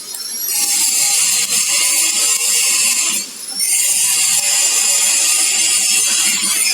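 Electric arc welding with a stainless steel welding rod: a steady, high-pitched crackling hiss that starts about half a second in, breaks off briefly a little after three seconds when the arc is broken, and then resumes.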